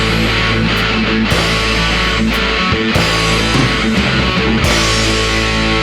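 Rock band playing loud with electric guitar, an instrumental stretch without singing: held guitar chords with drum and cymbal hits.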